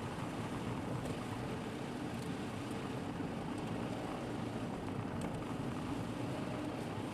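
Car driving, heard from inside the cabin through a dashcam microphone: a steady low engine hum and road noise, with a few faint ticks.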